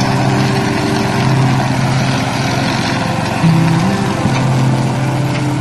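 Petrol engine of a robotic lawn mower running steadily, with background music over it whose low notes change about once a second.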